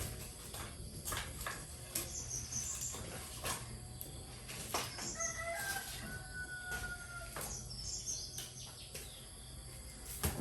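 A rooster crows once, a call of about two seconds starting about five seconds in. Small birds chirp a few times, and sharp clicks and knocks are scattered throughout.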